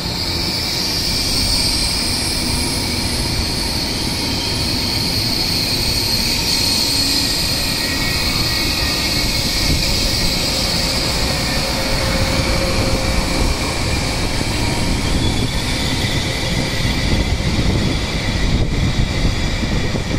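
CRH380BL high-speed electric train rolling slowly in to stop, with a steady rumble of the wheels and a high squeal while braking that is strongest in the first half and fades.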